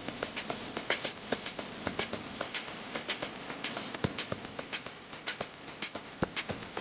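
Rapid, irregular tapping and clicking, several sharp taps a second.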